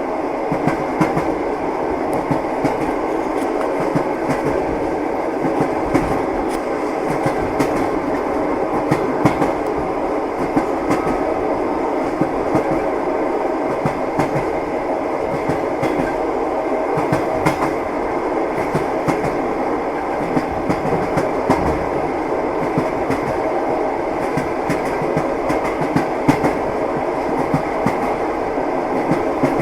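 Train wheels clattering over rail joints while the train runs at speed, a steady rumble with frequent irregular knocks.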